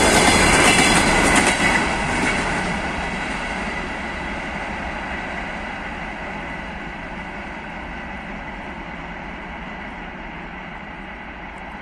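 Long freight train of open gondola wagons rolling past, wheels clacking over the rail joints. The last wagons go by about two seconds in, and the rumble then fades steadily as the train pulls away.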